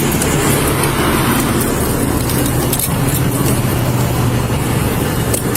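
A car running steadily, a constant low engine hum under a wash of road or motor noise.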